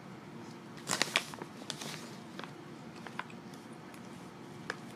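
A child chewing a soft marshmallow while handling its plastic snack pouch: a cluster of crinkles and clicks about a second in, then a few single ticks.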